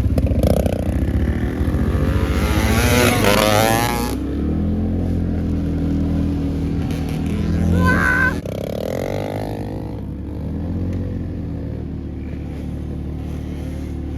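Small dirt bike engines running, the pitch rising and falling as the throttle is worked, louder and rushier for the first few seconds.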